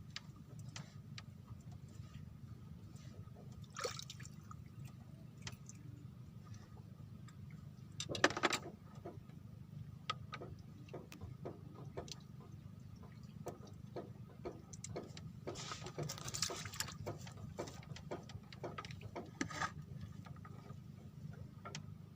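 Water splashing and sloshing in short bursts over a steady low hum, with scattered clicks; the loudest splash comes about eight seconds in.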